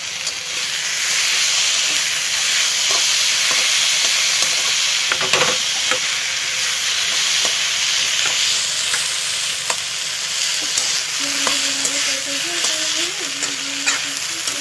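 Crab and vegetable momo filling frying in oil in a steel kadai, with a steady sizzle. A metal spatula scrapes and clicks against the pan as the filling is stirred.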